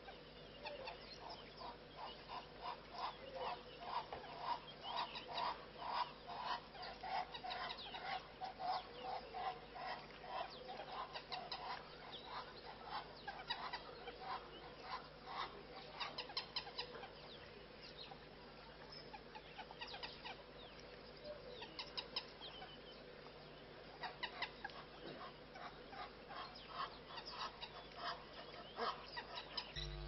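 Wild birds calling: a long run of quick repeated notes through the first third, then scattered shorter calls.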